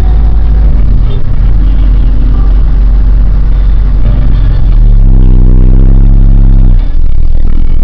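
1998 Nissan Eagle pickup running loud while being driven, with a steady low rumble throughout. About five seconds in, a clear, even engine tone comes up and holds before cutting off suddenly near seven seconds.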